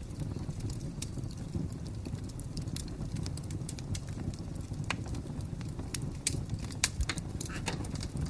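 Fire crackling: a steady low rumble of burning with irregular sharp pops and snaps, a cluster of louder pops in the second half.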